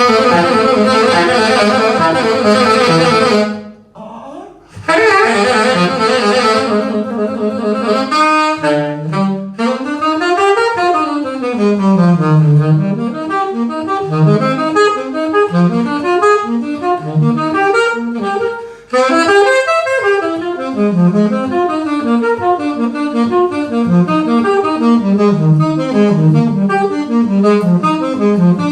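Jazz saxophone playing: two long, loud held notes, then a running improvised line of quick notes sweeping up and down in pitch.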